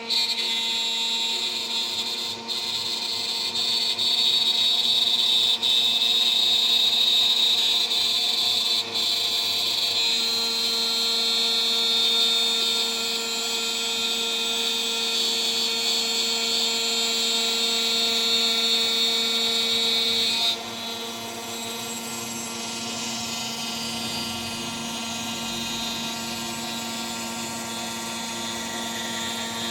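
DIY CNC machine's spindle turning a 3 mm three-flute end mill at about 14,000 RPM while it cuts, a steady high whine over a grinding cut. The cutting sound grows louder about ten seconds in and drops quieter about twenty seconds in.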